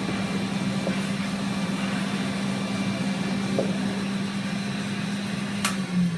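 Old British-made cylinder vacuum cleaner's motor running with a steady hum. Near the end there is a sharp click, the switch going off, and the motor starts to wind down, its pitch falling.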